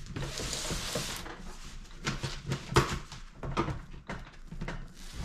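A PS5 console box's cardboard and plastic packaging being opened by hand: a rustling, sliding noise for about the first second, then a run of taps and knocks as parts are handled.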